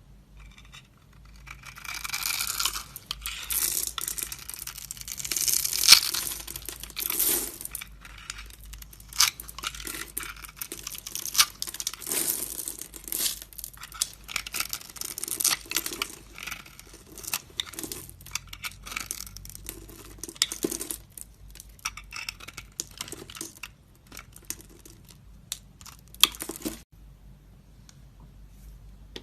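A blade carving and scraping into a bar of soap, a run of crisp, crackly scrapes that is dense for the first several seconds and then breaks into separate strokes and ticks, stopping shortly before the end.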